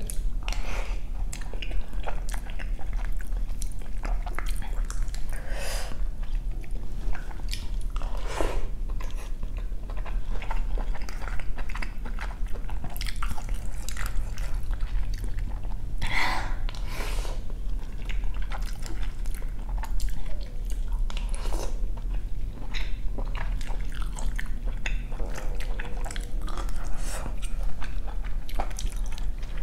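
Close-miked chewing and biting of someone eating spoonfuls of rice, with wet mouth sounds and small crunches coming irregularly.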